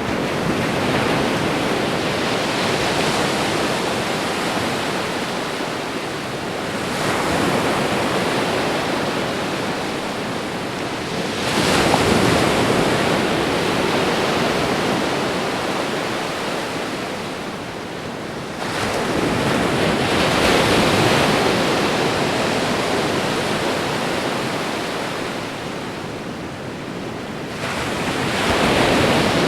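Ocean waves breaking on a shore, continuous surf noise. A fresh wave surges in every five to seven seconds, each building quickly and then slowly washing away.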